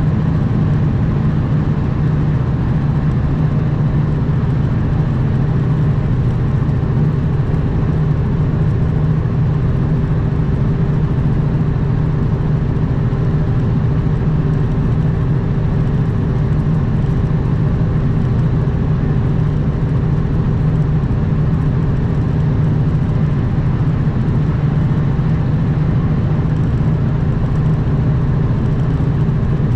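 Kenworth W900 semi truck's diesel engine droning steadily on the road, with an even hiss of road and wind noise over it.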